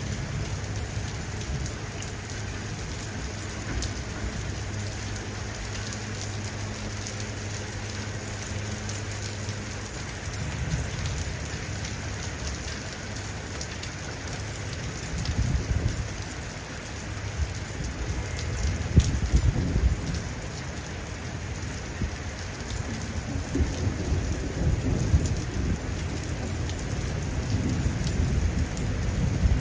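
Steady heavy rain with rolling thunder: low rumbles come in about halfway through and grow stronger toward the end. A low steady hum sits under the rain for the first third, then stops.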